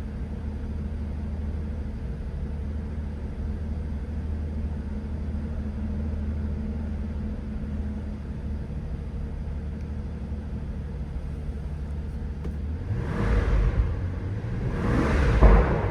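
2007 Mercedes-Benz SL65 AMG's twin-turbo V12 idling steadily after a cold start, then revved twice in short throttle blips near the end.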